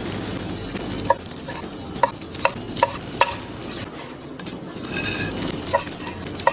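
A metal utensil stirring food in a cooking pot over a steady sizzle, clinking sharply against the pot's side about seven times, mostly in a quick run early on and twice more near the end.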